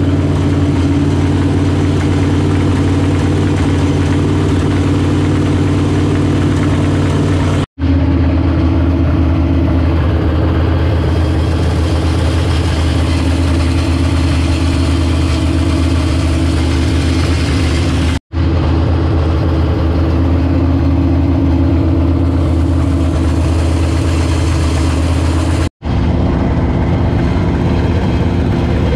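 Freshly installed Mopar small-block V8 in a 1972 Plymouth Satellite, a 318 fitted with a 340 crankshaft, running at a steady idle. Three sudden, very brief gaps break the sound where the recording is cut.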